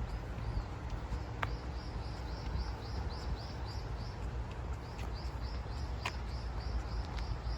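A bird singing a fast run of short, repeated high chirps, about four a second, over a steady low rumble, with a couple of sharp clicks.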